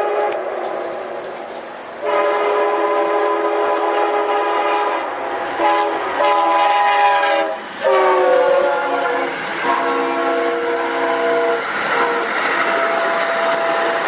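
Locomotive air horn sounding a series of blasts as the train approaches, its chord dropping in pitch about eight seconds in as the locomotive passes. The rumble and hiss of the passing train carry on beneath it.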